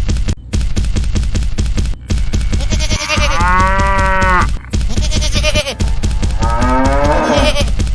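Fast, steady beat with heavy bass, over which a farm animal calls twice: one long held call a few seconds in, then a wavering, bleating call near the end.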